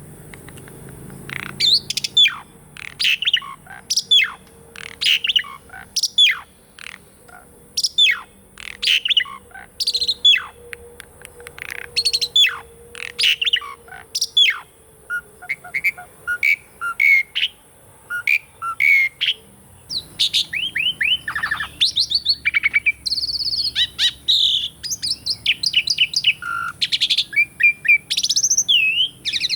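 Pied starling (jalak suren) singing: a fast series of sharp, downward-sweeping whistled notes. About twenty seconds in, the song turns into denser, more varied chattering.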